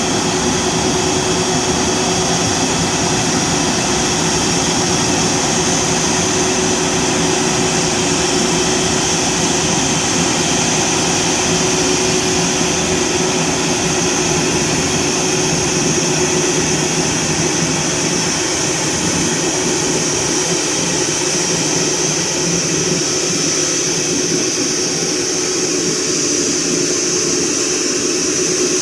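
Garuda Indonesia Airbus A330-900neo jet airliner running steadily, with a constant whine and a strong high hiss that stay level throughout.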